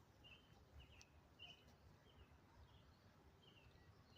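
Small bird giving short, high chirps over and over, about two a second, faint over a low rumble.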